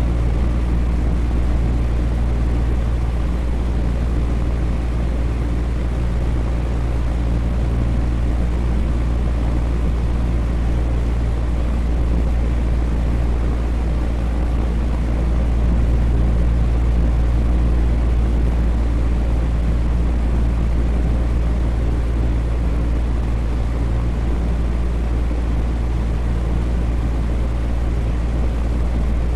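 Electric fan running steadily: a constant deep whooshing drone with a low motor hum, unchanging throughout.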